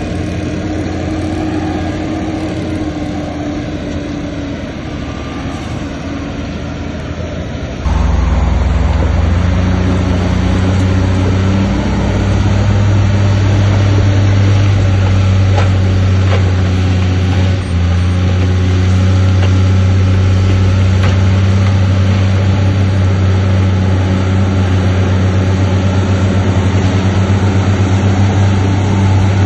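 Diesel engine of heavy earthmoving machinery running steadily with a low hum. It jumps abruptly louder about eight seconds in and holds there.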